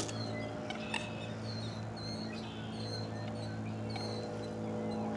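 Small birds chirping in short, high, repeated notes, over a steady low hum.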